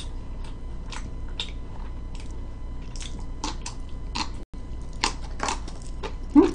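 Close-up crunching of a slice of yellow pickled radish (danmuji) being bitten and chewed: a run of short, irregular, crisp crunches.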